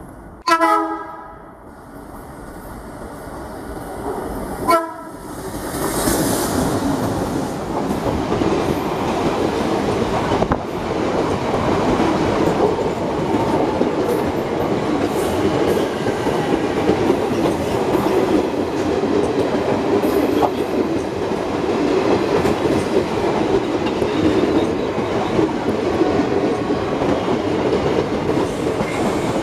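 Indian Railways WDM-class diesel locomotive sounding its horn in a loud blast about half a second in and a second short blast near five seconds. Then the locomotive and its coaches pass close by, with a steady rumble and the clatter of wheels over rail joints.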